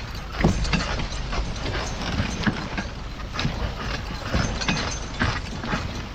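Draft horses' hooves clopping in irregular knocks, over the steady rattle and rumble of the horse-drawn hay rig they pull.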